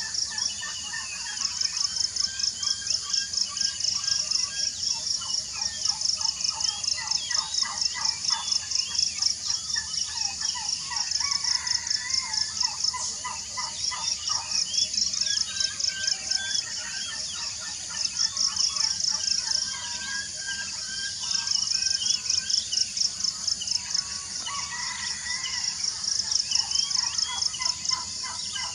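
Many birds chirping and whistling, with a loud, high-pitched pulsing trill that comes in phrases of a few seconds each, pausing and starting again.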